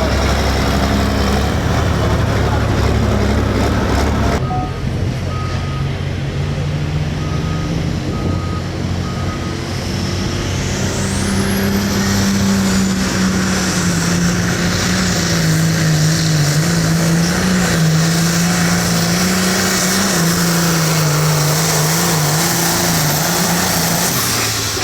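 Turbocharged diesel hot farm pulling tractor running hard at full throttle, its engine note holding steady with a slight waver and a high turbo whistle rising and then holding.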